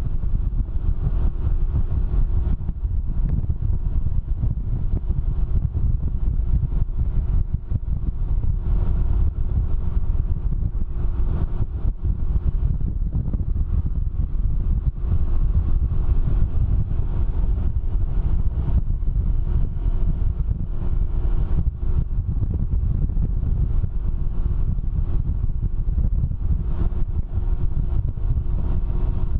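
Steady wind buffeting on the microphone over the even drone of a Can-Am Ryker three-wheeler's engine, cruising at speed.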